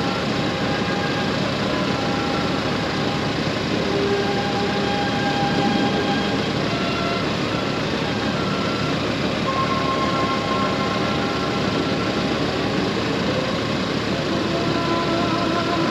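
Honda Gold Wing DCT's flat-six engine running steadily under way, mixed with wind and road noise.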